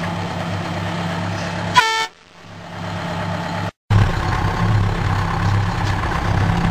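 Detroit Diesel 4-71 two-stroke diesel of a GMC tow truck idling steadily. Just under two seconds in comes a brief horn toot, then the engine sound falls away. After a short total dropout the engine is heard idling again about four seconds in.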